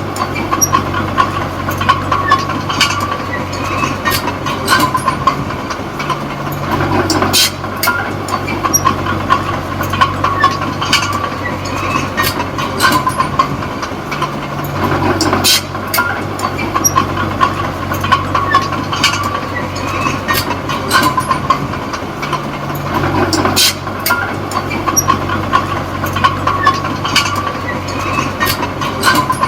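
Small Komatsu D20P crawler bulldozer working: its diesel engine runs steadily while the steel tracks clatter and squeak in a rapid ticking rhythm, with sharp metal clanks every second or two and louder ones every few seconds.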